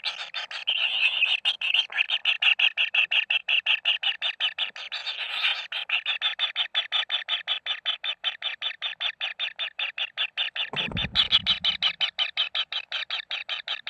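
Fast, evenly repeated calling, about five or six pulses a second without a break, with a short low rumble about eleven seconds in.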